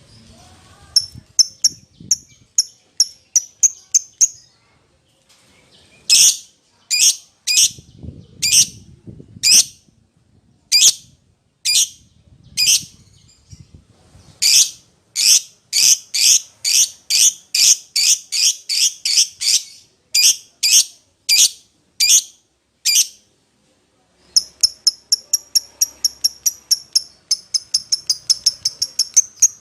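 Lovebird giving a long series of sharp, high-pitched chirping calls, the call used as a lure to call a companion or rival. The calls come in quick runs at first, then more widely spaced and louder through the middle, and speed up into a rapid run again near the end.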